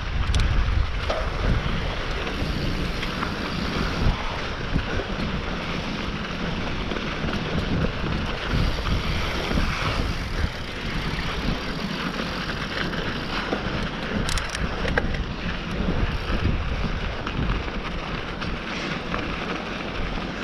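Mountain bike riding down a dirt trail: wind buffeting the microphone over the rumble of tyres on rough ground, with occasional short knocks and rattles from the bike.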